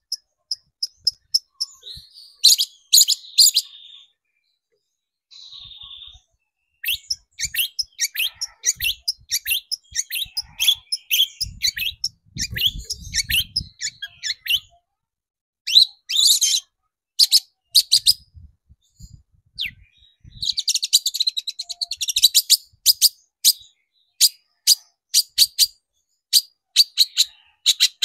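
Long-tailed shrike (cendet) singing: rapid series of sharp, high chattering notes broken by short pauses, with a quiet gap several seconds in.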